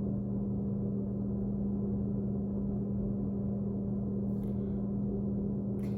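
A steady low hum, one constant pitch with a weaker lower tone beneath it, unchanging throughout.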